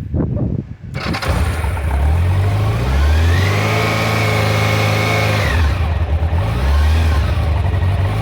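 1993 Honda Nighthawk CB750's carbureted four-cylinder engine on a cold start: it catches about a second in and runs. It is revved up and held for about two seconds, drops back, then is blipped once more briefly before settling to idle.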